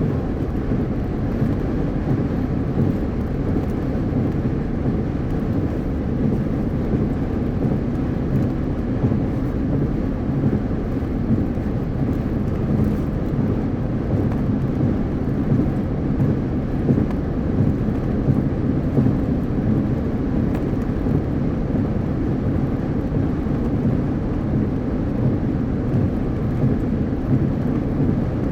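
Car driving at highway speed: a steady low rumble of tyre and road noise, with no distinct events.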